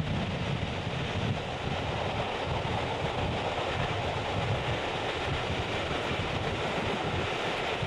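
Passenger coaches of a steam-hauled train running along the track, heard from an open carriage window: a steady rumble of wheels on rails.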